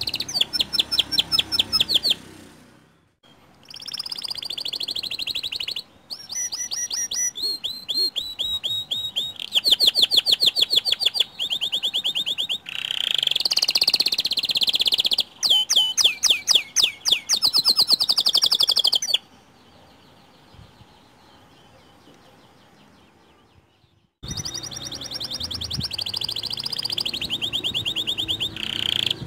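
White canary singing: fast trills and rolling runs of repeated high notes, broken by short gaps and one pause of about five seconds past the middle.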